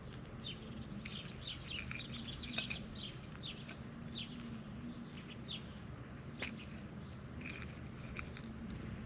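Small birds chirping: many short, quick chirps in a steady scatter. There is a sharp click about two and a half seconds in and a louder one a little after six seconds, over a steady low hum.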